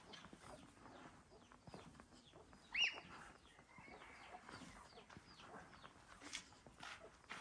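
A single short, sharp bird call, sweeping upward, about three seconds in, over quiet surroundings with faint scattered clicks.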